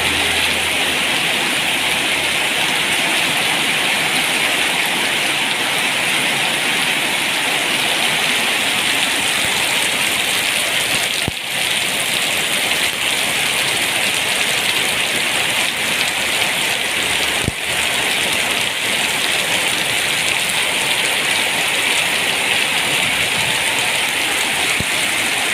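Steady rain falling, an even hiss of rain on surfaces, with two brief clicks about eleven and seventeen seconds in.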